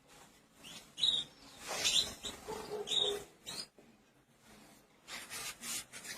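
Small pet birds giving short high chirps, four or so in the first four seconds, with rustling and light clicks.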